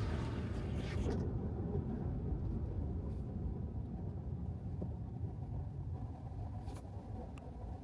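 Low, steady road and tyre rumble of a Tesla Model 3 driving on wet pavement, with a tyre hiss that dies away about a second in. The rumble eases gradually, and two faint ticks come near the end.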